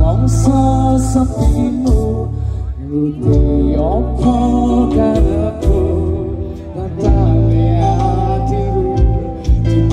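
Live dangdut koplo band playing amplified through a PA, with a singing voice or melody over steady bass and frequent drum hits.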